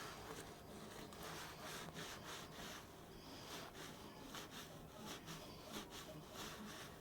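Faint, irregular scrubbing strokes on the underside of a microwave, working grease loosened by a soaking degreaser.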